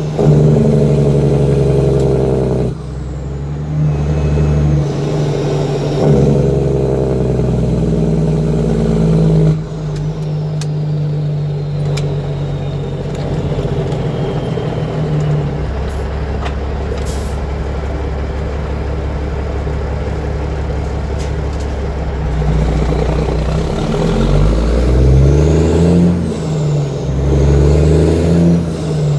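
Caterpillar C15 6NZ diesel in a truck with 7-inch straight pipes, engine braking and working through the gears of a 13-speed. The loud engine note cuts back sharply about three seconds in and again near ten seconds, runs steadier for a while, then rises and falls in pitch with each gear change near the end.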